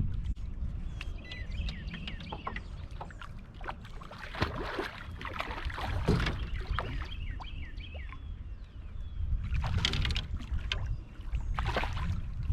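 Wind rumbling on the microphone, with several brief noisy rushes and a few faint bird chirps.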